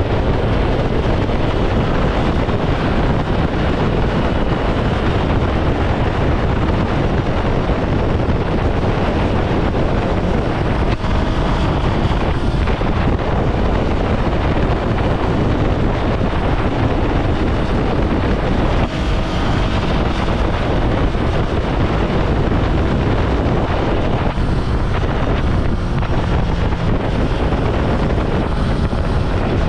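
Ducati Scrambler Sixty2's 399 cc air-cooled L-twin running steadily at road speed, buried under heavy wind rush on the action camera's microphone.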